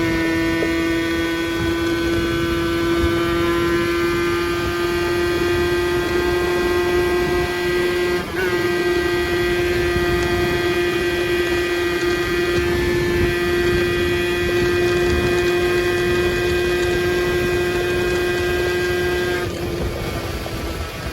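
50cc motorbike engine running at a steady high, buzzing pitch while riding, over wind noise. The note dips briefly about 8 seconds in and falls away near the end as the revs drop.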